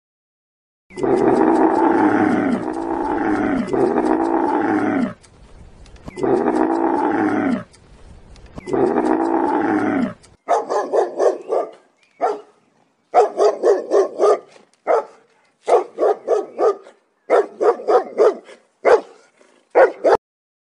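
Five long animal calls, each falling in pitch, in the first half. About halfway through they give way to a puppy barking in quick bursts of short yaps.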